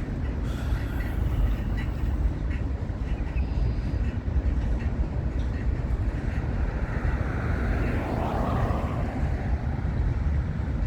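CSX freight train rolling past: a steady low rumble of wheels on the rails. A higher rushing sound swells briefly about two-thirds of the way through.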